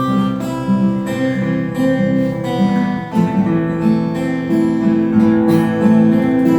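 Acoustic guitar strumming chords at an even pace, the notes ringing on between strums.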